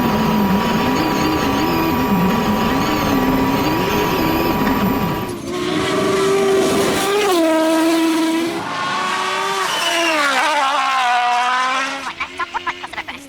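Rally car engines at full throttle. For the first five seconds the engine note wavers up and down. After an abrupt change about five seconds in, a clearer engine note drops in steps and then slides steadily down, and the sound falls away about a second before the end.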